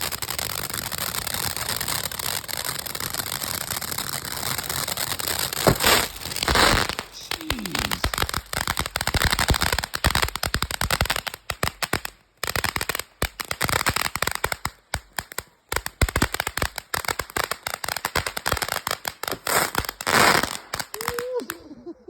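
Pure Fantasy hybrid fountain firework going off: a steady spraying hiss, then from about six seconds in, several sharp bangs of its aerial bursts over dense crackling. It cuts off abruptly near the end.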